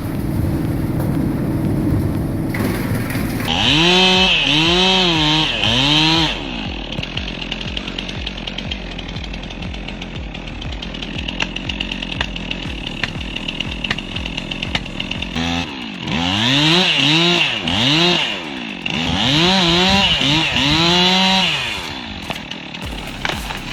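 Two-stroke chainsaw engine revved in a series of short bursts, its pitch rising and falling with each burst, in two groups: one a few seconds in, the other in the second half. Between them it runs lower and rougher.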